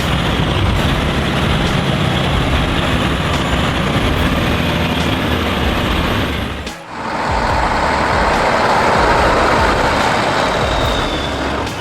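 Heavy truck engines running under load, dense and steady. About two-thirds of the way through the sound drops out briefly and comes back brighter.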